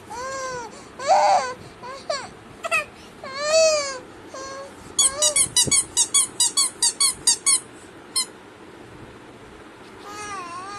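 Pet birds calling: a few drawn-out squawks that rise and fall in pitch in the first four seconds, then a quick run of about a dozen sharp chirps, around six a second, in the middle, with a few more squawks near the end.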